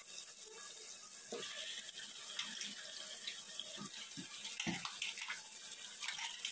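Freshly washed, wet raw chicken pieces going into a pan of hot frying masala, hissing and sizzling, with a few short knocks from the pieces or the ladle against the pan.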